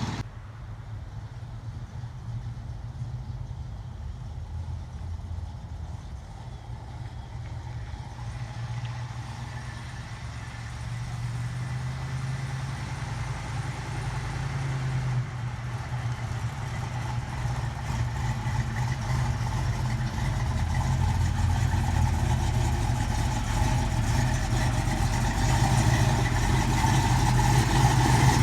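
1984 Chevrolet Caprice's engine running at a steady idle, growing gradually louder.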